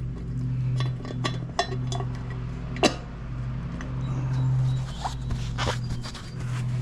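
Scattered light clicks and clinks of metal tools and parts being handled, one sharper click about three seconds in, over a steady low hum that swells and fades.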